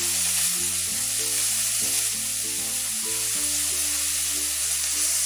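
Chopped onion and garlic sizzling steadily in hot oil in a metal kadai while a spatula stirs them, with soft background music underneath.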